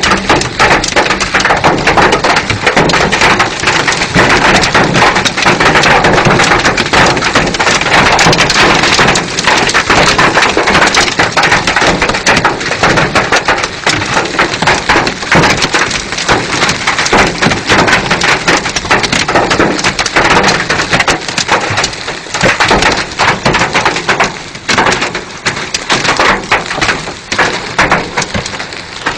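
Heavy rain pouring down, a loud, steady hiss with a dense patter of drops striking a surface, easing a little near the end.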